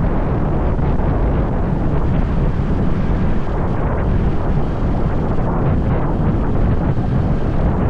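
Wind buffeting the microphone of a moving motorbike, a loud, steady rumble with the bike's running noise buried in it.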